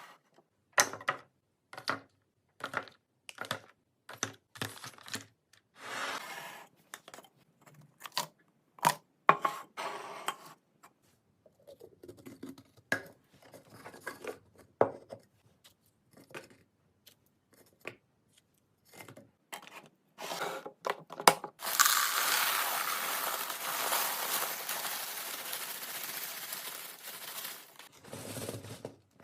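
Food packaging and plastic containers being handled: a string of clicks, knocks and plastic rustling. About two-thirds of the way in, a steady rushing noise runs for about six seconds and then stops.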